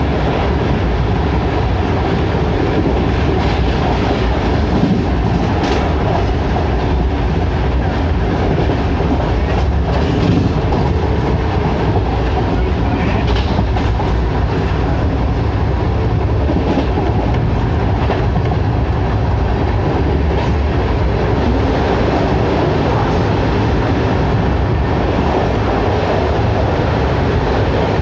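Ernakulam Duronto Express running at speed: a steady, dense rumble of the coach and wheels on the rails, with a few faint clicks.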